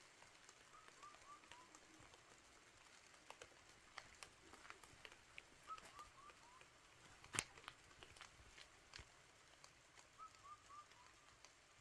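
Light rain falling, with a faint steady hiss and scattered drips and taps, one sharper tap about seven seconds in. A bird calls three times, each call a quick run of four short notes stepping down in pitch.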